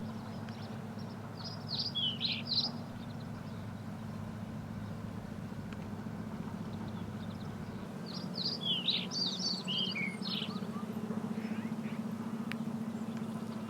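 A songbird sings two short phrases of quick chirping notes, one about a second and a half in and a longer one about eight seconds in, over a steady low hum.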